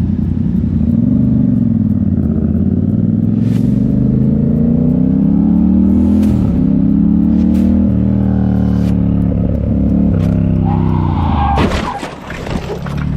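Motorcycle engine running under throttle, its note climbing slowly and then easing. About eleven and a half seconds in the steady note breaks off into a short burst of clattering noise.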